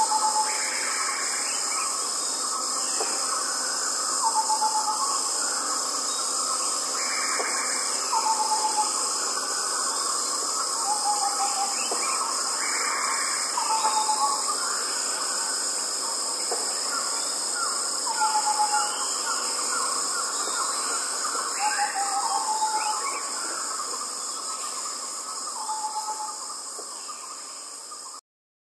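Jungle crickets keep up a steady, high chirring chorus. Over it, a short falling call repeats every three to four seconds, along with other scattered chirps. It all fades out near the end.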